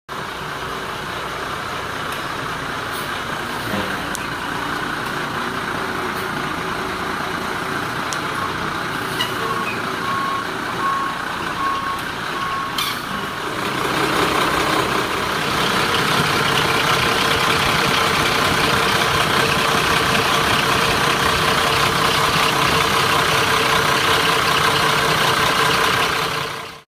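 1994 Crane Carrier garbage truck's diesel engine running, with its back-up alarm sounding a row of even beeps for several seconds mid-way. After about 14 s the engine grows louder and stays at that higher level until the sound cuts off suddenly.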